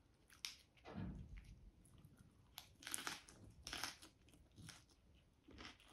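Close-up chewing and crunching of a mouthful of fresh lettuce leaf with chicken adobo: soft, scattered crisp crunches and wet mouth clicks.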